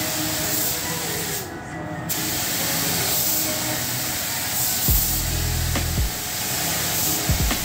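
Compressed-air spray gun hissing steadily as it sprays clear coat. The hiss cuts out briefly about a second and a half in, then resumes.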